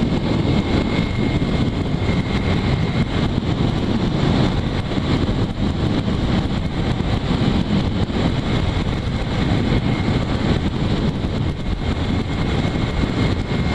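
Steady rush of wind and road noise with a motorcycle engine running underneath, heard from a rider at cruising speed.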